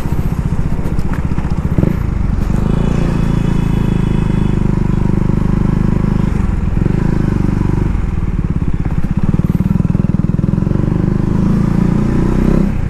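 KTM Duke 250's single-cylinder engine running steadily while riding, its pitch shifting a few times as the rider changes speed.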